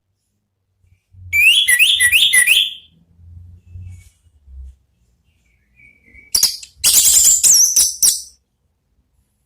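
Orange-headed thrush singing: a run of four quick rising whistled notes, then after a pause of a few seconds a faster, higher burst of varied, tumbling notes.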